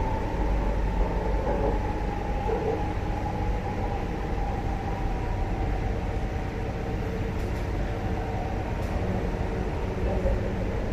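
Cabin noise of a moving Chinese-built MTR Tuen Ma Line train: steady wheel and running rumble with a motor whine that falls slowly in pitch.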